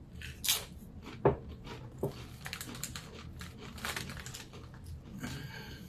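Dill pickle chips being handled and crunched: crackly crunching and crinkling, with a couple of sharp clicks near the start and a denser run of crackle in the middle.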